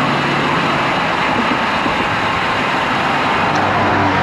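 Steady rush of wind buffeting the microphone, mixed with road traffic noise, while riding a road bike in a crosswind.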